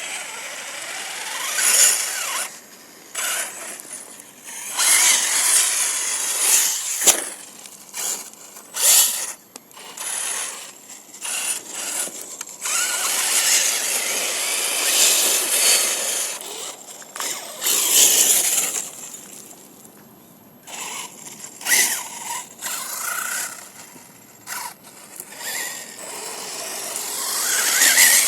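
Radio-controlled car's motor whining in repeated bursts as it is throttled on and off, its tyres spinning and scrabbling on loose ground while the car is stuck.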